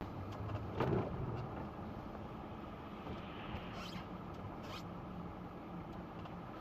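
Steady car engine and road noise as heard from inside a moving car, with a short sharp knock about a second in and a couple of faint clicks later.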